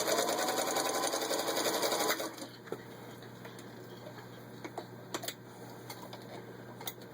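1934 Singer 221 Featherweight sewing machine stitching through four layers of denim: a fast ticking run with a motor whine that rises in pitch, lasting about two seconds before it stops. A few light clicks follow.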